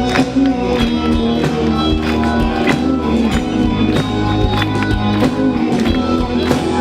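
Rock band playing live: amplified guitar chords held under drum hits at a steady beat.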